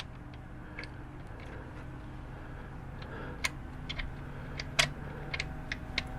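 Light scattered clicks and ticks as the final drive's filler cap is handled and threaded back in by hand, with two sharper clicks about three and a half and five seconds in. A faint steady low hum runs underneath.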